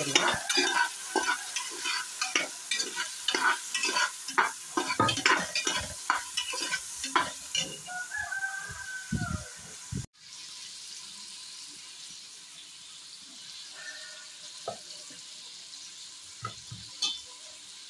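Whole shallots frying in oil in an aluminium pressure cooker, with a metal ladle stirring and scraping against the pot over a sizzle. About ten seconds in the sound cuts off abruptly and resumes as a steadier, quieter sizzle with only occasional scrapes.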